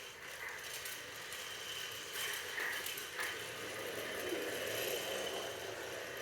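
A train running: a steady rattling rumble with a few faint clicks.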